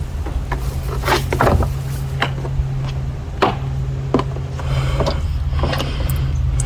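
Plastic clicks and knocks from a wet/dry vac's lid being unlatched and lifted off to look at the sucked-out drain water, over a steady low hum.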